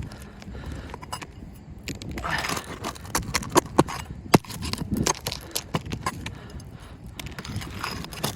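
Irregular sharp knocks and taps, with a short scrape about two seconds in: hand tools working on asphalt roof shingles to loosen a shingle and its nails for removal.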